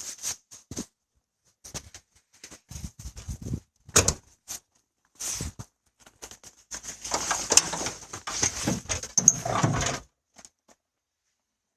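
Scattered clicks and knocks, then about three seconds of rattling and scraping that stops abruptly, as the hood of a 1991 Ford F-150 is released and raised.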